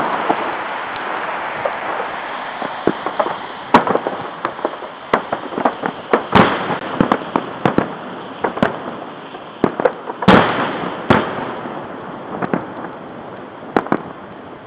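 Fireworks salute going off: a string of sharp bangs and crackles from bursting shells, with louder booms about 4, 6 and 10 seconds in.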